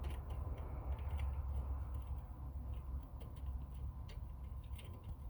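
Light, irregular ticking clicks of a hand tool tightening a small 8mm screw holding the new EGR valve, over a steady low hum.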